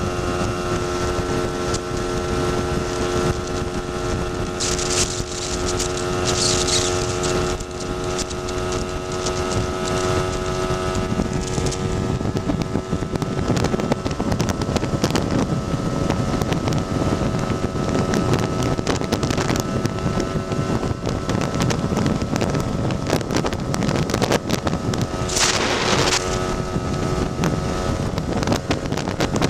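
Tuned Lambretta scooter's two-stroke single-cylinder engine running steadily under way, with wind buffeting the microphone. The engine's tone is clearest in the first half, then sinks into the wind noise; two brief hissing swells pass, one early and one near the end.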